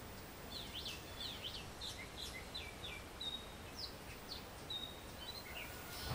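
Faint bird chirps: a scatter of short, high chirps and brief whistles over a low background hiss.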